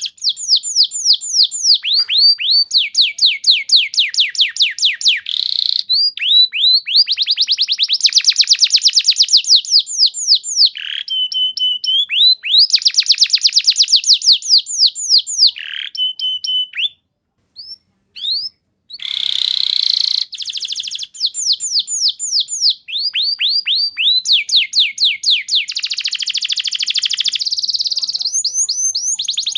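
Domestic canary singing loudly in long, fast trills. Its song runs as rapid strings of downward-sweeping notes, broken by a couple of short steady whistles and one brief pause about halfway through.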